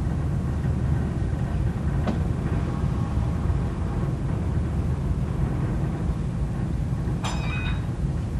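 Steady low rumble of a running vehicle engine. There is a faint click about two seconds in and a short high squeak near the end.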